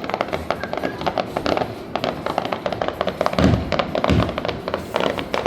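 New Year fireworks crackling and popping in a dense rapid patter. Two deep booms come a little past the middle, under music.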